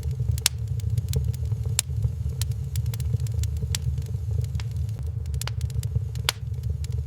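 Wood fire crackling in a fireplace: sharp, irregular pops and snaps, about one or two a second, over a steady low rumble.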